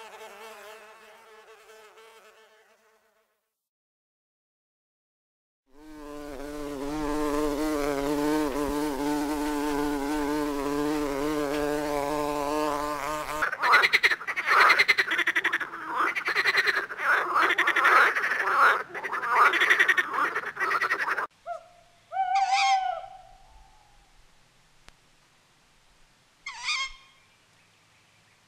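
Recorded animal sounds played in turn: a buzzing that fades out, a few seconds of silence, then a steady buzzing drone for about eight seconds, a rapid pulsing croak-like call for about eight seconds, and two short calls a few seconds apart near the end.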